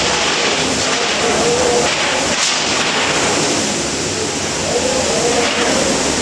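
Storm wind and heavy rain making a loud, steady rushing noise, with faint voices underneath.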